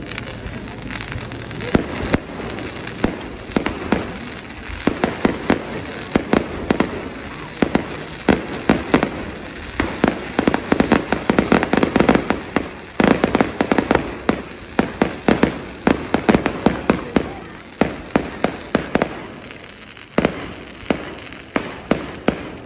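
Fireworks going off in a rapid, dense string of sharp bangs. The bangs come thickest about halfway through and thin out toward the end.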